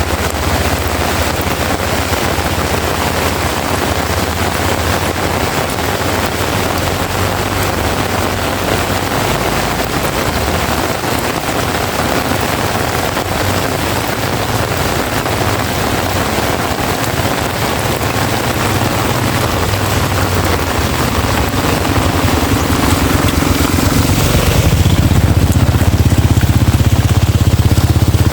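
Heavy rain pouring down in a steady hiss, with a low rumble underneath that grows louder in the last few seconds while the hiss dulls.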